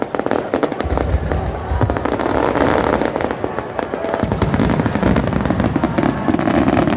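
Fireworks barrage: a dense, rapid string of shell bursts and crackling, with deeper booms joining about a second in.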